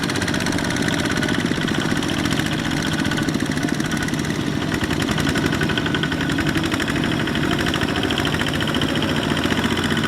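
Mini Kubota tractor engine running steadily with a fast, even chug.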